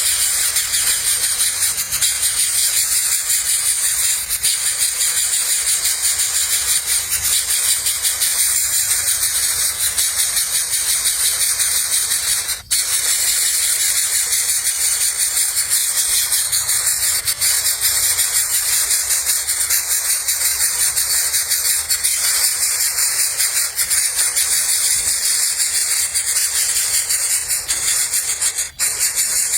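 Dense insect chorus, crickets or cicadas, as a steady high-pitched shrill buzz, broken off for an instant about thirteen seconds in and again near the end.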